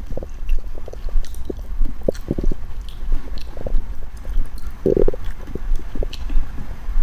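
Bowel sounds picked up close to the belly during a meal: irregular gurgles and small pops over a steady low rumble, with a louder gurgle about five seconds in.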